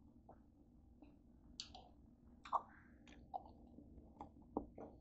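Someone chewing green seedless grapes: faint, irregular small crunches and clicks, the loudest about two and a half seconds in. Near the end a grape is picked off the bunch.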